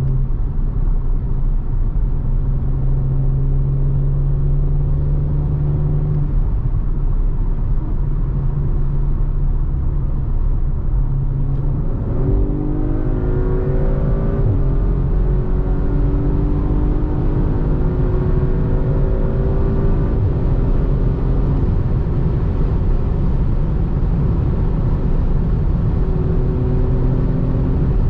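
Audi RS5 Sportback's 2.9-litre twin-turbo V6 running steadily under way, then accelerating about halfway through, its pitch rising in steps through the gears before settling back to a steady drone.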